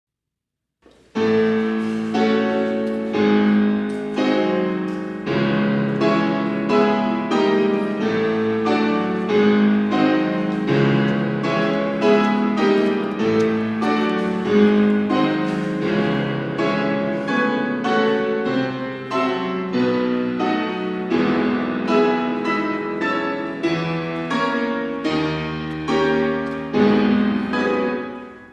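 Instrumental piano music with no vocals, notes struck in a steady rhythm, starting after a second of silence and fading out near the end.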